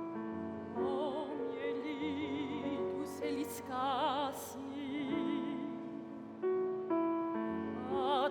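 A classically trained singer singing an operatic art song with strong vibrato, accompanied by piano chords.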